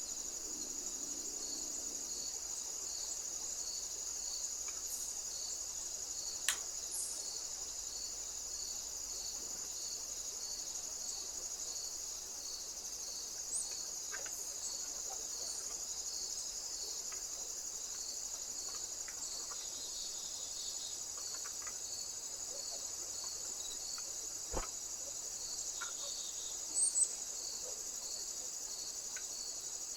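A steady, high-pitched chorus of singing insects, with a slower pulsing call beneath it at about one and a half pulses a second. A couple of sharp clicks sound, and near the end two short high chirps are the loudest sound.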